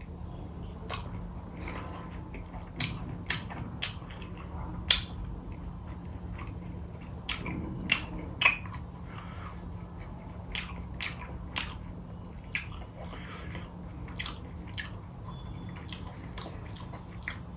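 Close-up chewing and biting of a mouthful of rice with silkworm pickle: irregular wet clicks and smacks of the mouth over a faint steady hum.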